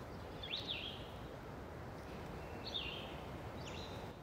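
Faint outdoor ambience: a steady low hiss with three short, high bird chirps, one about half a second in and two more near the end.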